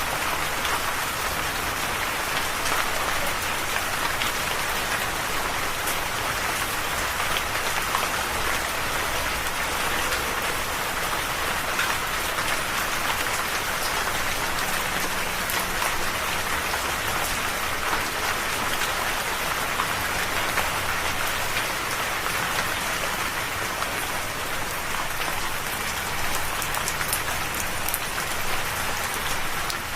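Steady rain falling, an even hiss of drops with scattered sharper patters of drops hitting a surface.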